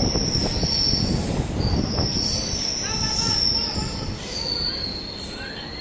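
Suburban EMU electric train heard from inside a coach: a steady running rumble with high-pitched wheel squeal from the rails, easing off a little toward the end.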